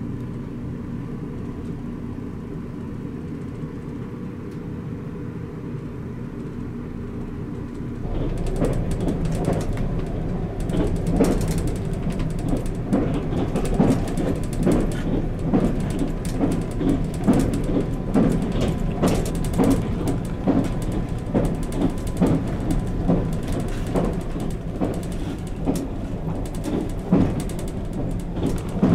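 Steady low drone of a moving express train heard inside its compartment. About eight seconds in it grows louder, and a dense, irregular rattling and creaking of the carriage joins it.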